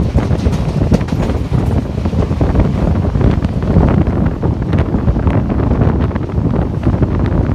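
Wind buffeting the microphone at a passenger coach window, over the steady rumble and clatter of the coach's wheels on the track as the train runs at speed.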